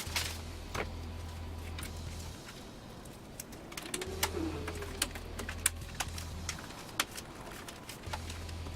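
Scattered light clicks and taps of computer parts being handled and fitted into a PC case, with a low hum that comes and goes three times.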